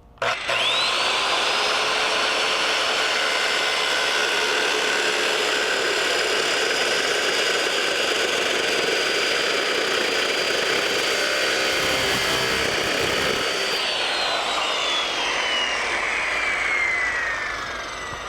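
Circular saw fitted with a masonry blade spinning up and cutting through metal, then released about 14 seconds in and winding down, its pitch falling steadily.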